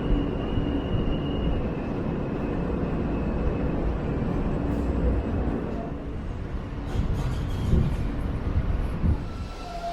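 New York City subway train running, a steady low rumble of wheels on the track, with a brief high squeal near the start and scattered clicks and short tones in the last few seconds.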